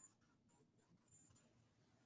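Near silence, with faint low background noise and a few faint, short high blips.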